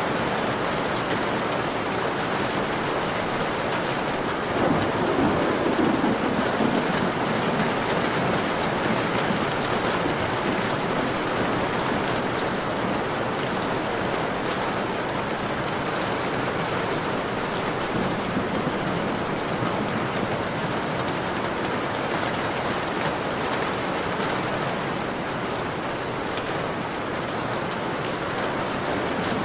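Steady rain pattering on a window pane, with a low rumble of thunder swelling about five seconds in.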